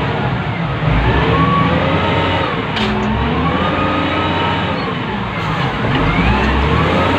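Wheel loader's diesel engine heard from inside the cab, revving up and down repeatedly under work, with a whine that rises and falls in pitch along with it.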